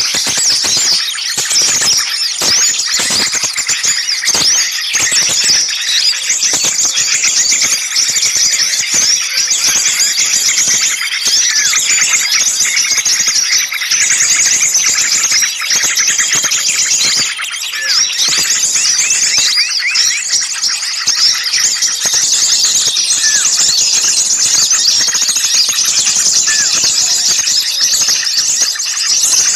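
Dense, noisy chorus of many small songbirds chattering and shrieking at once, with rapid high chirps overlapping without a break. This is the agitated commotion of small birds used as a bird lure.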